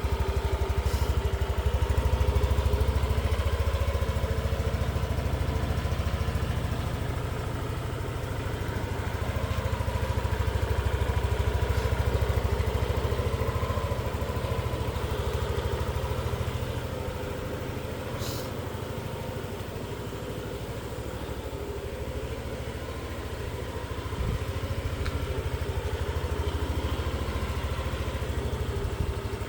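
Yamaha Cygnus Gryphus scooter's 125 cc single-cylinder four-stroke engine idling steadily through its exhaust, swelling and easing slightly in loudness.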